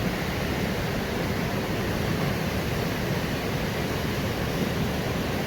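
Steady rushing of river water at the mill, an even hiss with a low rumble.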